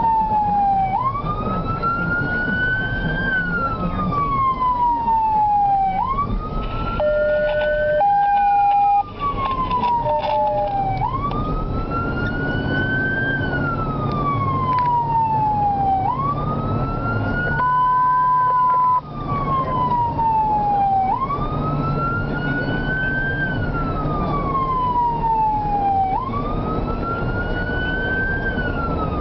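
Fire apparatus siren wailing, its pitch rising quickly and then falling slowly in a cycle about every five seconds, over the rumble of the vehicle. A short steady horn tone cuts in twice, about eight seconds in and again near eighteen seconds.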